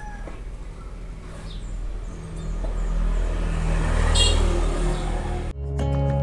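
A motor engine running with a steady low hum that grows louder over a few seconds. Music cuts in near the end.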